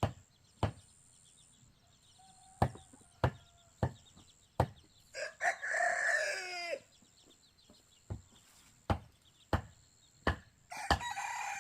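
A rooster crows once, about five seconds in, with more chicken calling near the end. Over it comes a series of sharp knocks, roughly one every two-thirds of a second, with a pause in the middle.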